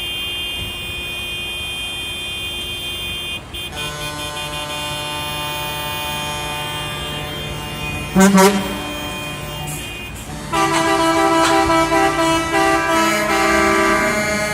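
Truck air horns sounding in long held blasts, several horns overlapping at different pitches. There is a short, very loud blast about eight seconds in, and from about ten and a half seconds a louder chord of horns that shifts pitch partway through.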